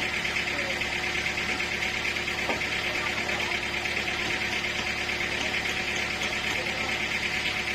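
Sawmill machinery running steadily: a continuous mechanical drone with a fast, even buzz, unchanging throughout.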